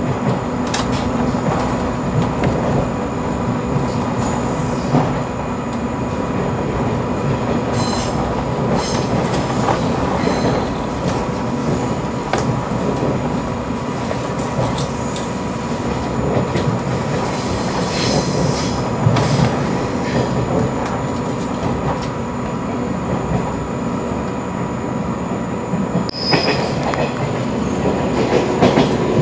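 Cabin sound of a 485-series electric train running along the line: a steady rumble of wheels on rail with a constant hum, occasional clicks over rail joints, and a short high wheel squeal near the end.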